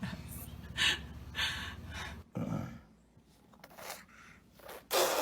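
A baby breathing in a series of short, breathy gasps and pants, about eight in five seconds, the last one the loudest.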